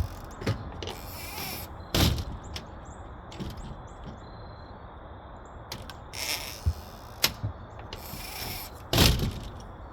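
Scattered knocks and clanks of hand tools and metal parts while work goes on around the tractor's carburetor, with short rustling noises between them. The two loudest knocks come about two seconds in and near the end.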